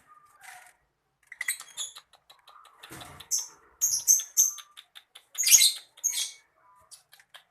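Lovebirds in a nest box giving short, high-pitched squeaks and chirps in quick clusters, with light clicks and knocks in between.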